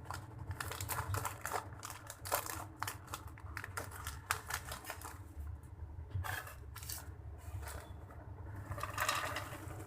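Light clicks and rustling of popcorn being handled into a snack box. The clicks are thick for the first few seconds, thin out, and come again briefly near the end.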